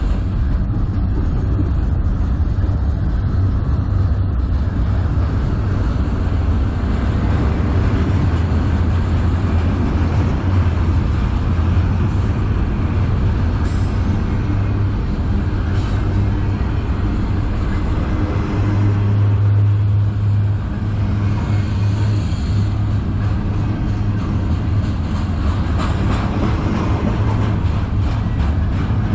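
Freight train cars rolling past on the rails, a steady loud rumble with a few sharp clicks about halfway through.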